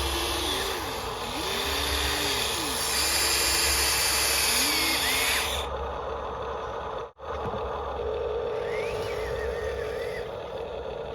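Small electric motors of radio-controlled toy construction machines whining, their pitch rising, holding and falling in short runs as the controls are worked. The sound breaks off abruptly about seven seconds in and carries on at a steadier level.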